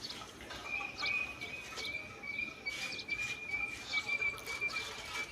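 Small birds chirping in short calls, over a steady thin high-pitched whistle that begins about a second in.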